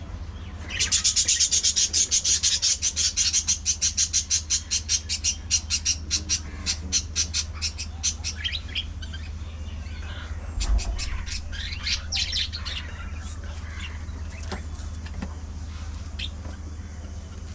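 Budgerigars chirping: a fast, even run of sharp high chirps, about six a second, that slows and thins out, followed by scattered chirps and calls from the flock.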